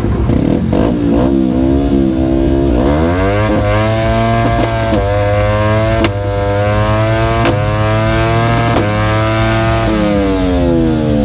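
Yamaha R25 250 cc parallel-twin motorcycle engine accelerating through the gears, its note climbing with several short breaks at the shifts, then falling away near the end as the throttle closes.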